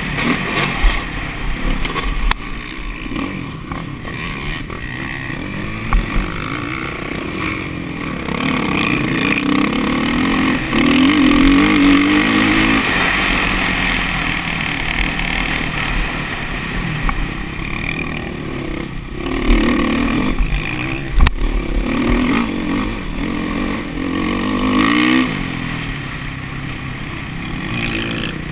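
Motocross bike engine revving up and down as it is ridden, the pitch rising and dropping again and again, with a few sharp knocks about two-thirds of the way through.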